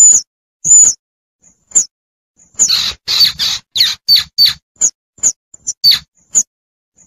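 Baby squirrel's high-pitched squeaks, the call of a young squirrel for its mother, played as a hunting lure. Single short squeaks come at first, then about two and a half seconds in a fast run of louder, rougher squeaks lasts about three and a half seconds, and single squeaks resume near the end.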